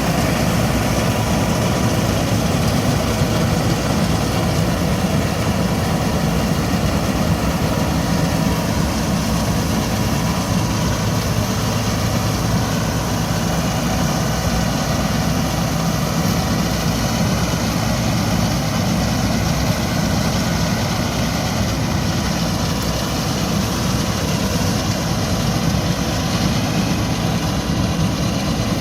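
Massey Ferguson 385 tractor's four-cylinder diesel engine running steadily at constant speed, driving a wheat straw chopper through the PTO.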